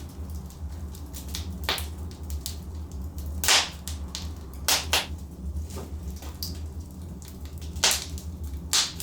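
Wood fire burning in a fireplace: logs crackle with a steady low rumble, broken by loud sharp pops and snaps, the loudest about three and a half seconds in and again near eight seconds.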